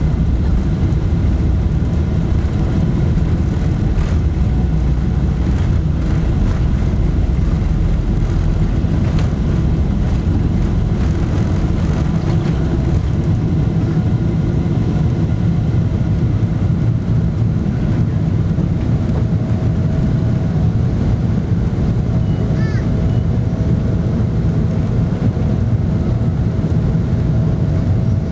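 Steady cabin rumble of a Boeing 777-300ER, with its GE90-115B turbofans running and faint steady engine tones above the rumble. There are a few light knocks inside the cabin.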